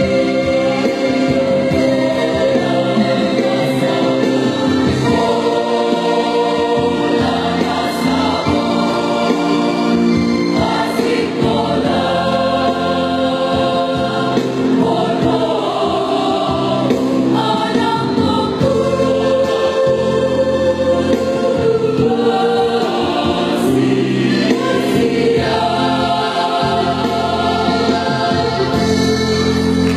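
A choir singing in harmony, holding sustained chords that move every second or two.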